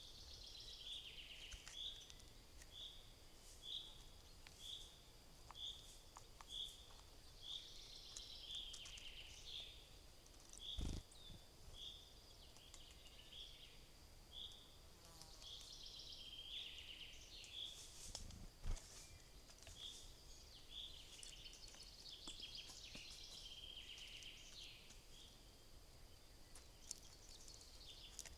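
Faint wild songbirds calling: one bird repeats a short high note a little more than once a second for about the first half, while others add scattered chirps. Two soft knocks come about a third of the way in and again past the middle.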